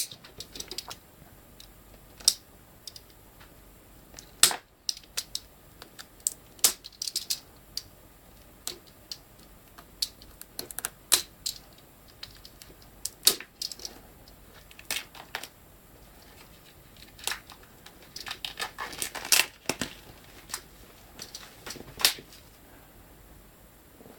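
Hands handling a DVD box set and its plastic and cardboard packaging: scattered sharp clicks and taps at irregular intervals, with a short burst of rustling and clicking near the end.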